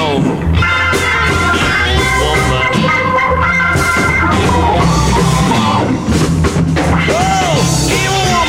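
Late-1960s British rock band recording playing with a steady drum kit, bass, and pitched lead lines that bend in pitch, in a passage with no clear words.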